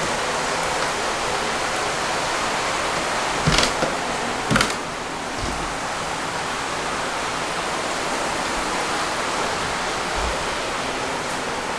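Heavy typhoon rain pouring down as a steady, dense rushing hiss. Two sharp knocks about a second apart sound near the middle.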